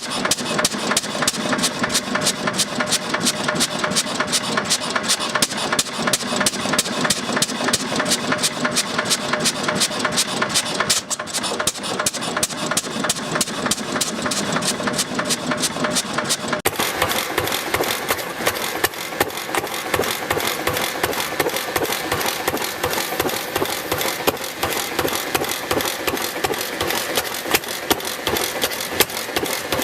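Old Fairbanks Morse stationary engine running steadily at idle, with a quick, regular beat of firing strokes. About 17 seconds in, the sound changes abruptly to another engine running with a similar rapid, even beat.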